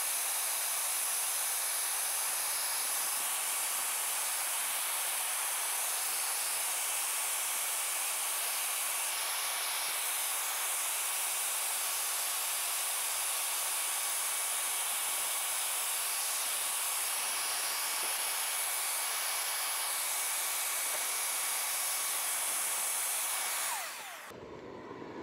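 Bee vacuum's motor running steadily with a faint whine, sucking up honeybees to collect the colony; it stops abruptly near the end.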